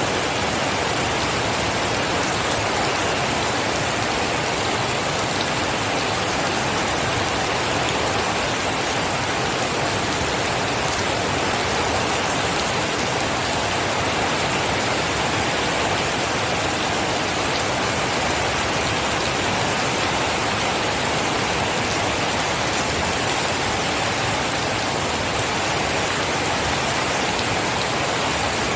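Steady, heavy rain falling, a dense even hiss of many drops with no thunder.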